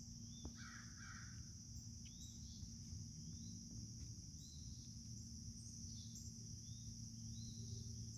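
Faint outdoor ambience: a steady high-pitched insect chorus, with a bird's short chirps repeating every half second to a second from about two seconds in. A brief harsher bird call comes about a second in, and a low steady hum sits underneath.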